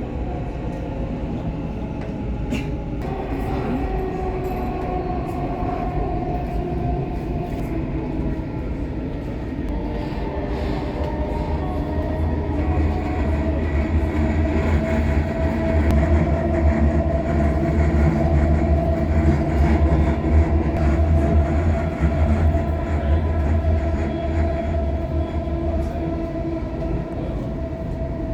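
Dubai Metro train running, a steady electric whine over a deep rumble. The rumble builds about halfway through and eases off near the end.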